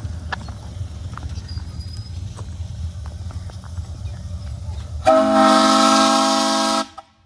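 Low rumble, then about five seconds in a single loud blast of the steam locomotive's whistle: several tones sounding together with a hiss over them. The blast lasts under two seconds and cuts off abruptly.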